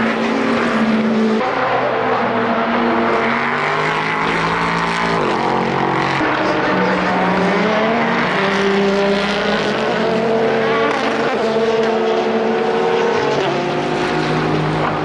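Several racing sports-car engines running hard at once, their notes overlapping at different pitches and stepping up and dropping back with gear changes.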